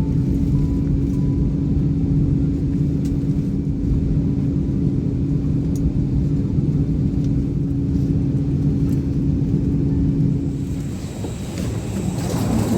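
Airbus A319 cabin noise on the ground after landing: a steady engine rumble with a steady hum. About eleven seconds in the hum stops and a noisier sound with a thin high whine takes over.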